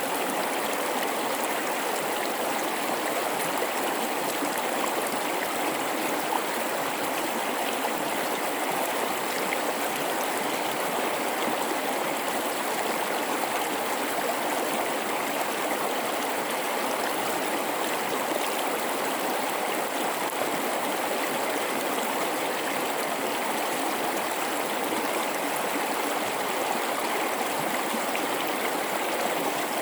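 River water running through a rocky gorge: a steady, even babbling rush that never lets up.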